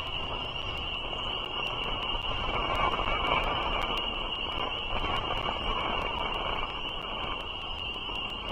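Steady outdoor background from a nest-cam microphone: an even low rushing noise with a continuous high-pitched band above it, and no distinct calls or events.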